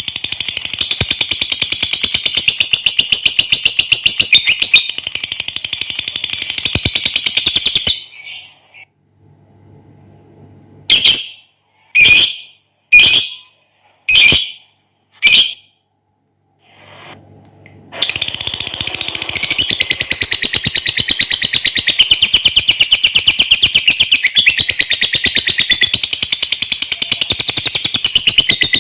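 Lovebird singing its long, rapid chattering trill (ngekek). About eight seconds in it breaks off; after a short pause come five short sharp calls, then the rapid trill resumes from about eighteen seconds.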